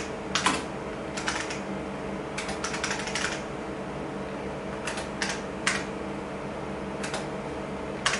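Typing on an IBM buckling-spring keyboard, keystrokes coming in short runs a second or two apart, over the steady hum of the running vintage IBM PCs.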